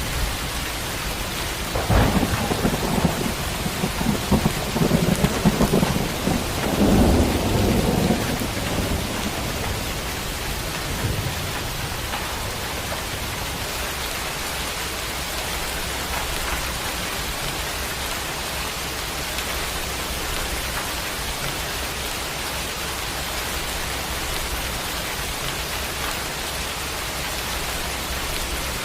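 Thunderstorm: steady rain hissing, with a sharp thunderclap about two seconds in that rolls on in rumbles for several seconds before dying back into the rain.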